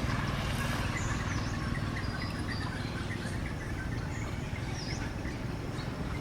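Forest ambience: a steady hum of insects, with a few short, high bird chirps that sweep up or down in pitch.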